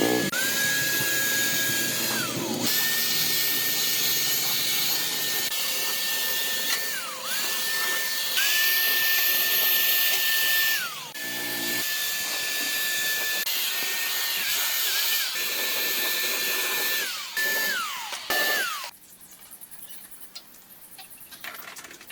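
A high-speed electric power tool runs with a steady high whine over a harsh hiss of material being worked. It is released about five times, each time winding down with a falling whine before starting up again, and it stops near the end.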